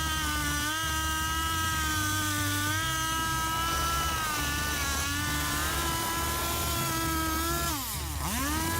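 High-revving motor of a wood-cutting machine running with a steady whine. Near the end it bogs down briefly under load, the pitch dropping sharply, then recovers.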